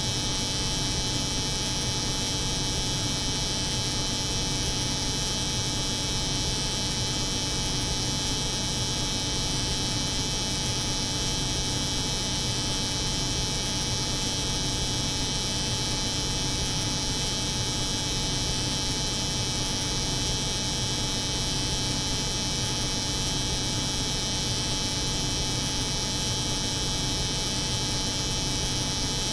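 Steady, unchanging hum of a cold room's refrigeration unit layered with the buzz of an electric hair clipper.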